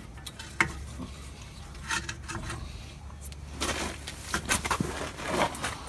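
Scattered light clicks and knocks with short bouts of scraping and rustling, busiest in the second half, as parts and tools are handled at the rear brake, over a faint steady low hum.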